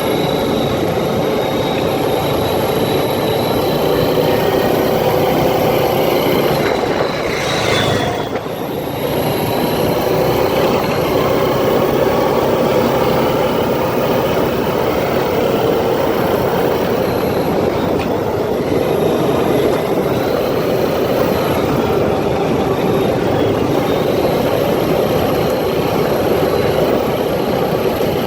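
ATV engine running steadily under way, a loud drone mixed with rushing noise and a faint whine that drifts up and down in pitch; the sound drops briefly about eight seconds in.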